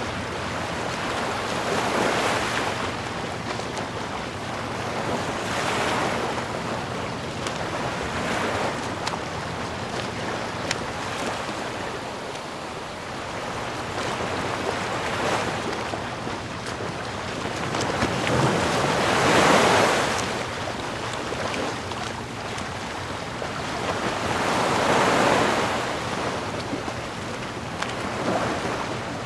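Sea waves breaking and washing ashore in slow swells every few seconds, the loudest about two-thirds of the way through, over a steady rush of surf and wind.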